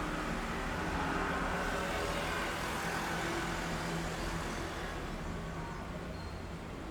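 City street traffic heard from above: a steady low rumble of vehicle engines with the noise of a passing vehicle swelling in the first few seconds and then easing off.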